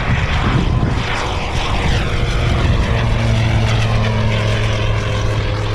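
Single-engine propeller light aircraft running at full power on take-off. Its higher tones fall in pitch over the first few seconds, and a steady low engine hum carries on from about halfway.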